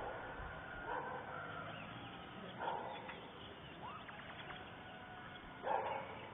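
A dog barking: a few single barks a second or two apart, the loudest near the end.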